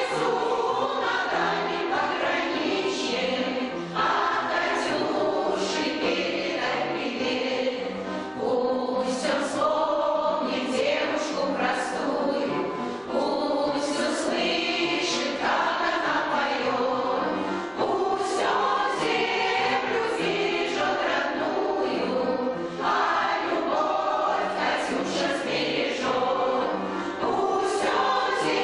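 Women's choir singing a song with instrumental accompaniment.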